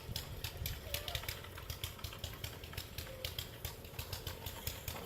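Rapid, irregular clicks and crunches, several a second, over a steady low rumble, with faint voices in the distance.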